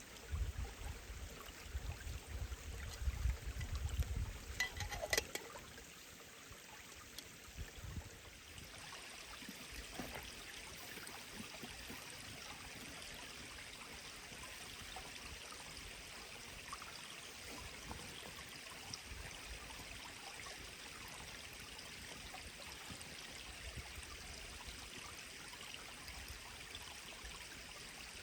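A forest stream flowing steadily, a constant rush of water. In the first few seconds there is low rumbling and a brief crackle over it.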